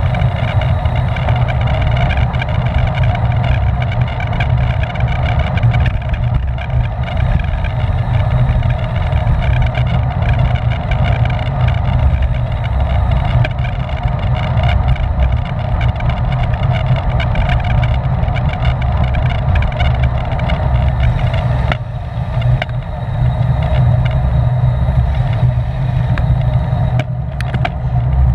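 Steady wind rushing over a bicycle-mounted camera microphone at race speed, a heavy low rumble with tyre and drivetrain hum under it.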